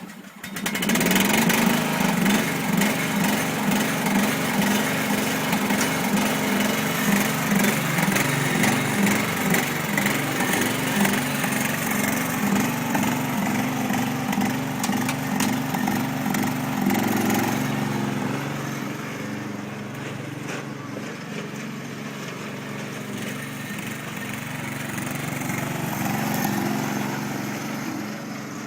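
Craftsman riding mower's 13.5 hp single-cylinder air-cooled engine running with a pulsing beat, which the owner says is not running right since fresh gas and an oil change. It gets quieter about two-thirds of the way through.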